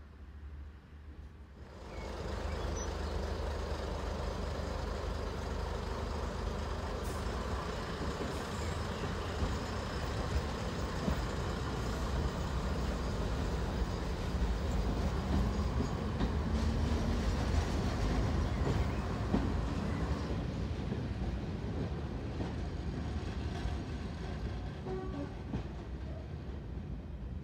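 Met-Cam two-car heritage diesel multiple unit running on the line: a steady rumble of engine and wheels on rail. It begins abruptly about two seconds in, grows a little louder toward the middle and slowly eases off near the end.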